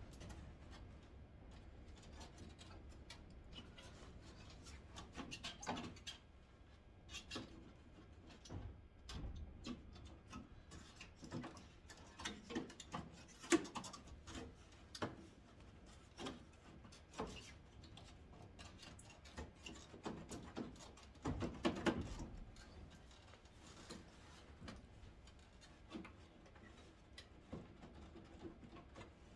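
Scattered light clicks and taps of hands and tools working at clipped plastic trim and screws around a headlight, with a louder clatter about thirteen seconds in and again around twenty-one to twenty-two seconds.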